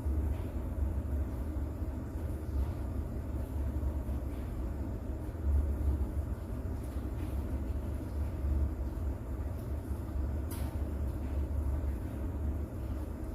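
Steady rain with a deep, continuous low rumble under it and scattered light drip ticks, one sharper tick about ten and a half seconds in.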